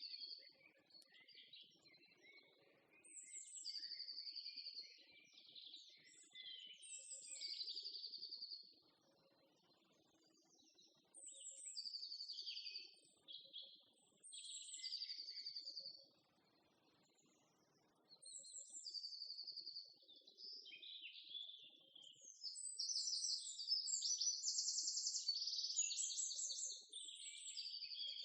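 Songbirds singing: short trilled phrases, each dropping from a high start into a rapid trill, repeated every few seconds with pauses between. Songs overlap in a denser stretch near the end.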